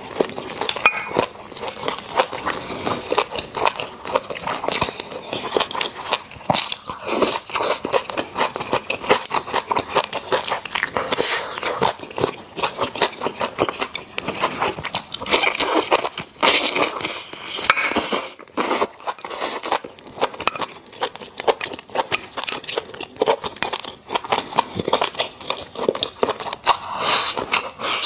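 Close-miked chewing of a mouthful of rice and braised pork belly: a steady run of small clicks and smacks from the mouth.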